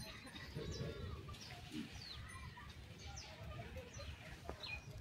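Faint, scattered short chirps of birds calling, with a couple of lower calls, over a steady low rumble.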